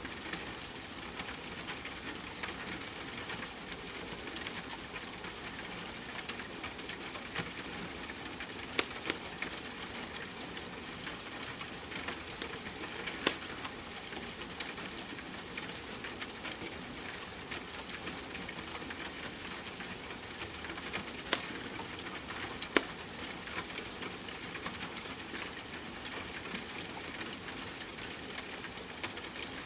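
Steady rain hiss mixed with a log fire's scattered crackles and pops, a few sharper snaps standing out.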